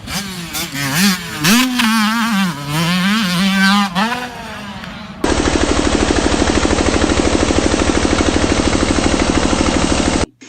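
Dirt bike engine revving, its pitch rising and falling repeatedly through the revs for about five seconds. Then it switches abruptly to a loud, steady, rapid pulsing that cuts off sharply near the end.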